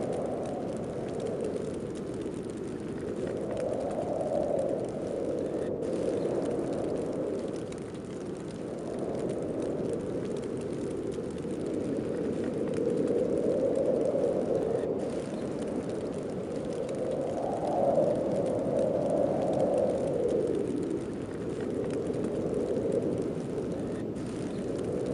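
Snowstorm wind blowing steadily with a low howl that swells and fades every few seconds, rising a little in pitch with the stronger gusts.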